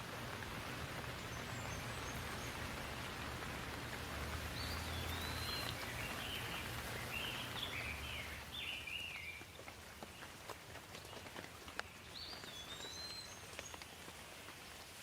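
Rain falling, a steady hiss that eases about nine seconds in to scattered individual drips. A bird sings short whistled phrases in the middle and again near the end.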